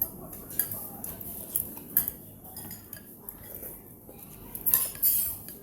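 Cutlery clinking against a bowl: a few sharp clinks in the first two seconds, then a louder cluster of clinks and scraping near the end.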